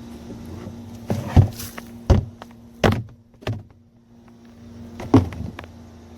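A handful of sharp knocks and thuds, irregularly spaced, over a steady low hum that cuts off suddenly just after the end.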